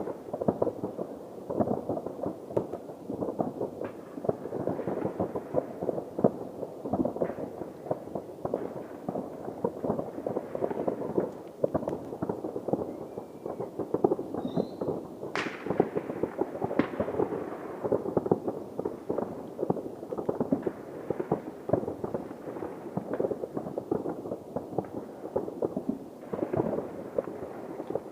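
Fireworks going off: a dense, continuous rattle of bangs and crackling pops from many shells at once, with one sharper, louder crack about halfway through.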